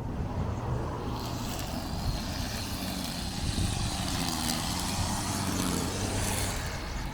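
A car driving past on the street, its engine and tyre noise swelling from about a second in and fading near the end.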